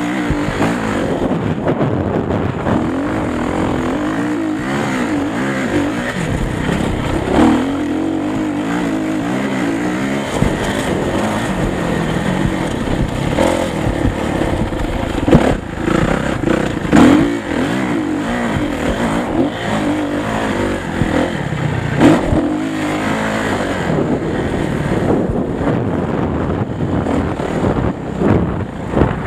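Motocross motorcycle engines revving up and dropping back over and over as the bikes ride the track. A few sharp knocks stand out about halfway through and near the two-thirds mark.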